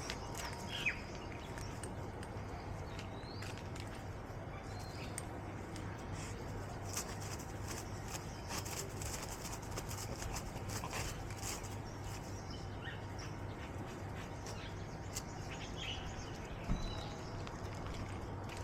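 Scattered short bird chirps over a steady low background hum, with a few faint clicks.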